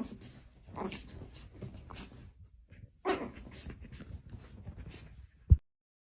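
A dog vocalising in a few short bursts, the strongest about three seconds in. Near the end comes a single low thump, the loudest sound, and then the sound cuts off.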